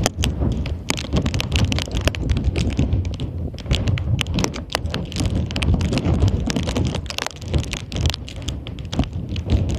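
Strong wind buffeting the microphone with a low rumble, overlaid by a dense, irregular crackle of sharp clicks.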